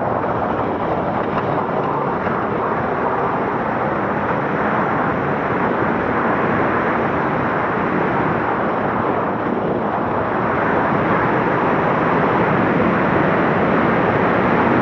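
Scania Dakar rally truck's diesel engine running hard, a loud steady noise that grows slightly louder near the end.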